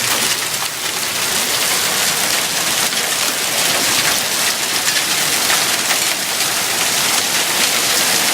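Heavy storm of rain and hail pounding down: a dense, steady hiss with many sharp ticks of hailstones striking hard surfaces.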